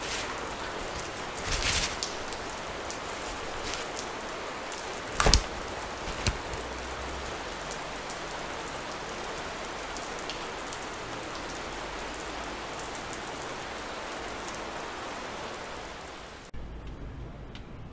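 Steady rain falling, with a few sharp snaps; the loudest comes about five seconds in. Near the end the rain sound cuts off abruptly, leaving a low rumble.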